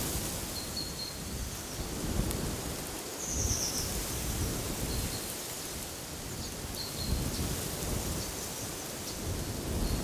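Wind gusting in the trees and buffeting the microphone with a low rumble, while small birds give short, high chirps, including a quick bright trill about three and a half seconds in.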